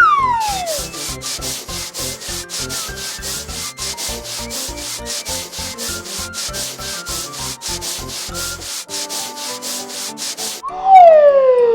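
Cartoon sound effect of rhythmic rubbing strokes, about four or five a second, like a vehicle being scrubbed or sanded down, over light background music. A falling whistle-like glide sounds at the start, and the strokes stop near the end as another falling glide begins.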